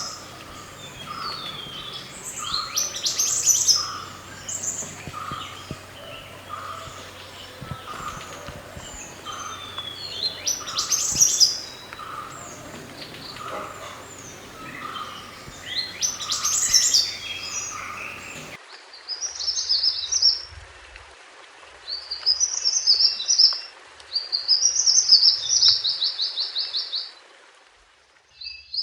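Wild mountain mantenan (mantenan gunung) singing quick, high chirping and trilled phrases, with other birds calling behind it. About two-thirds of the way through, the sound switches abruptly to a cleaner recording of separate high trills.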